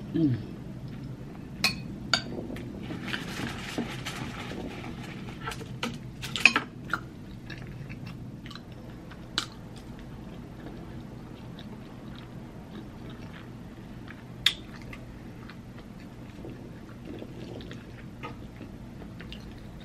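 Close-miked chewing and biting of crisp barbecue ribs, with scattered sharp clicks and taps, the loudest about six and a half and fourteen and a half seconds in.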